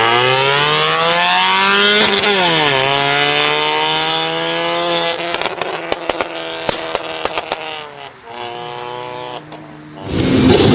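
Performance car engine revving up hard, dipping briefly about two seconds in and climbing again, then holding high revs. It then lets off, with a quick string of sharp exhaust pops and bangs as the revs fall. A loud rush of noise cuts in near the end.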